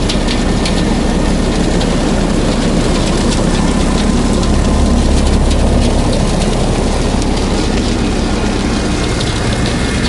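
Kubota B2650 compact tractor's three-cylinder diesel engine running steadily at working speed, with frequent cracks and snaps of brush and branches breaking.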